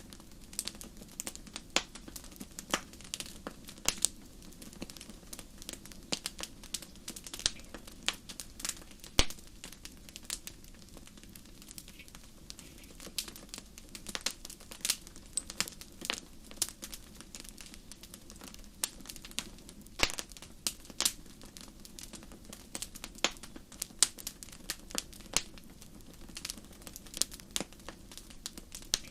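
Wood fire crackling in a fireplace: irregular sharp pops and snaps, several a second, over a steady low background rush.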